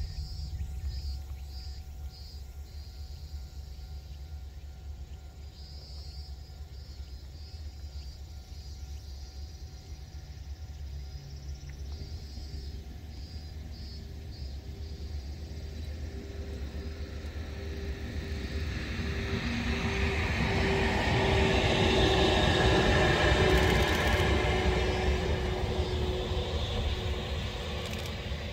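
EF81 electric locomotive hauling an ED75 locomotive, passing on the line: over a steady low rumble, the train's running noise swells from about two-thirds of the way in, peaks, then fades, with a pulsing hum in it.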